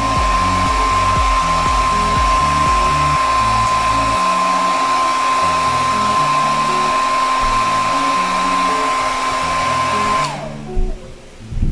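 Infinix foldable hair dryer with a diffuser attached, running steadily with an even rush of air and a high motor whine while drying curly hair. About ten seconds in it is switched off and the whine drops in pitch as the motor winds down.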